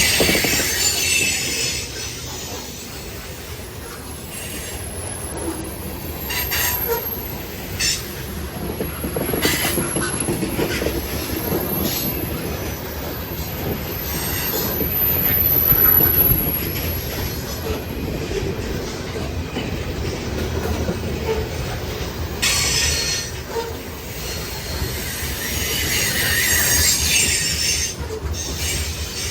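Freight train's grain hopper cars rolling past on steel wheels with a steady low rumble, the wheels squealing high-pitched on and off several times, loudest near the end.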